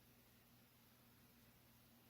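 Near silence: faint steady room tone with a low electrical hum.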